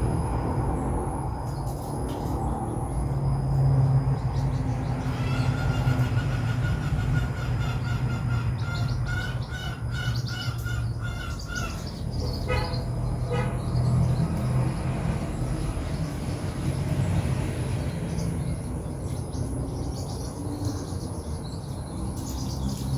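White-breasted waterhen chicks chirping in a quick, even series of high peeps, mostly in the middle of the stretch, over a steady low rumble.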